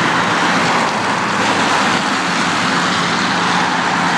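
Car driving past on the street: a steady rush of tyre and engine noise.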